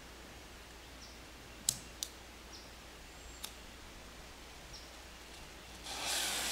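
A few sharp clicks, then near the end the black powder cannon's fuse catches and hisses, a steady sizzle that grows louder. Faint short high chirps sound every second or so in the quiet before.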